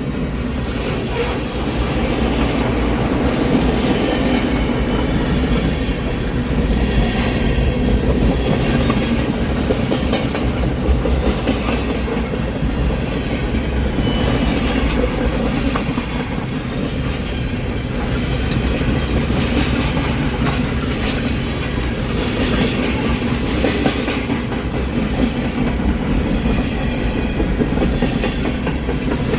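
Freight cars of a mixed freight train rolling past, with a steady rumble and the clickety-clack of wheels over the rail joints.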